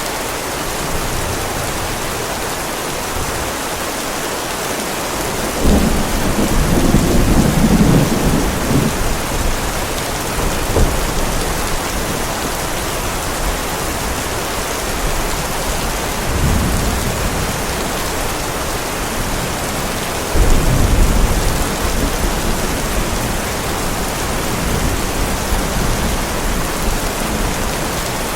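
Heavy rain falling steadily, with thunder rumbling through it: a loud roll about six seconds in, a sharp crack near eleven seconds, a weaker rumble around sixteen seconds and another loud roll about twenty seconds in.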